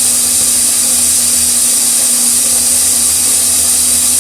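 OXO Brew conical burr coffee grinder running steadily as it grinds a 10-second timed dose of coffee beans: a constant motor hum under a dense whirring grind.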